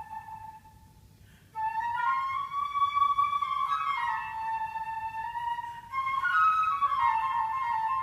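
Unaccompanied flute playing a slow phrase of long held notes. A sustained note dies away early on, and after a brief hush a new phrase comes in about a second and a half in. It climbs to a higher held note, steps back down, then rises and falls again.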